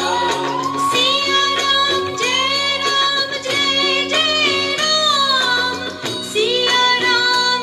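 A devotional bhajan: a woman singing a slow, held melody with gliding notes over a steady instrumental accompaniment.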